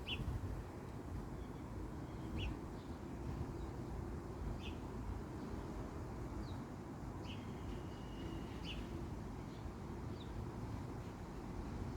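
A bird giving short, high calls about every two seconds, over a steady low rumble.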